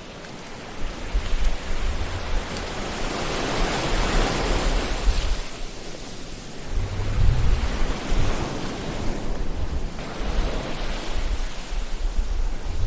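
Ocean surf washing onto a shore: a broad rush of water that builds to a peak about four to five seconds in, eases, then swells again, over a steady low rumble.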